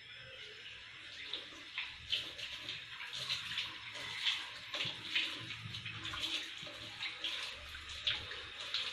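Tap water running onto boiled soya chunks in a bowl as they are rinsed, with frequent irregular splashes. The water comes on suddenly right at the start.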